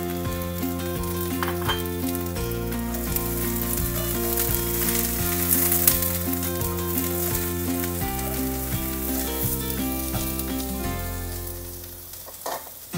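Cabbage sizzling in hot oil in a nonstick wok as it is sautéed and stirred with a spatula. The sizzle dies down near the end.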